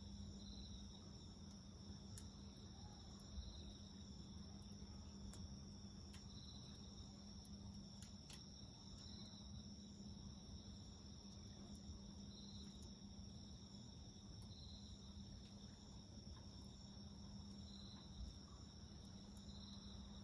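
Crickets and other insects trilling steadily, with one chirp repeating every two to three seconds. Scattered faint crackles from a wood fire.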